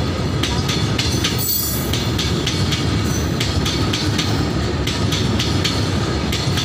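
A freight train of hopper wagons passing close by: a steady rumble of steel wheels on the rails, with repeated sharp clacks as the wheels run over the track.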